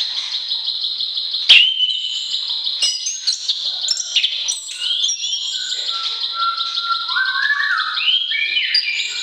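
Songbirds singing: a fast, steady, high trill runs through the first half, then gives way to varied whistled phrases with quick rising and falling notes. A single sharp click comes about a second and a half in.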